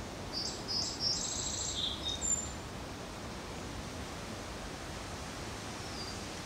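A songbird sings one short song, about half a second to two and a half seconds in: a few quick high notes, a fast trill, then a couple of closing notes, over a steady outdoor hiss.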